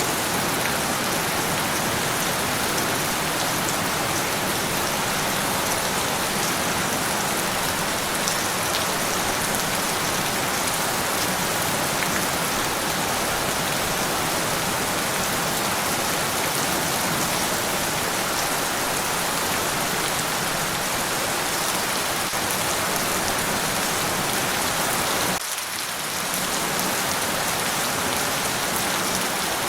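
Steady heavy rain, a dense even hiss of drops, with a brief dip in level about 25 seconds in.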